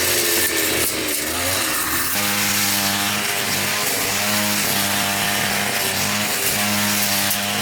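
A small engine running, its pitch wavering in the first two seconds and then holding steady.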